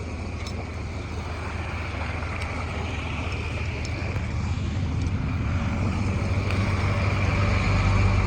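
A steady low engine hum with a faint high whine over it, growing gradually louder.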